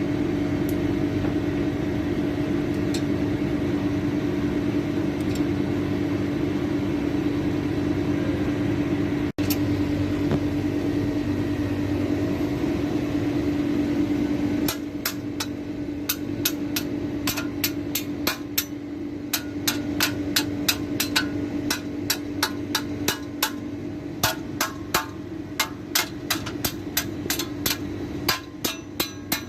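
A steady mechanical hum with a low tone, then about halfway through it falls away into quick, light metallic taps and clicks, a few a second.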